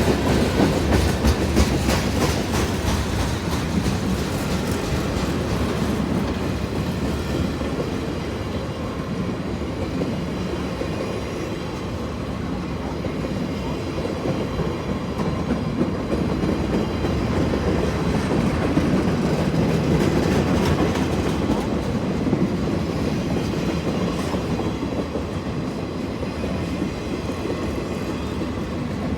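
Norfolk Southern freight train's cars rolling past, steel wheels clicking steadily over the rails with a continuous rumble.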